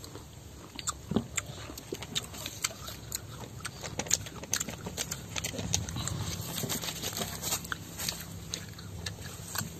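A person biting into and chewing a piece of sour starfruit (carambola): irregular crisp crunches and chewing clicks throughout.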